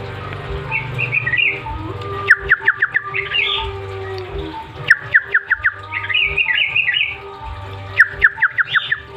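Yellow-vented bulbul (crukcukan) song played as a lure recording. Runs of five or six quick chattering notes come about every three seconds, each followed by a short bubbly warbled phrase, over a steady low hum.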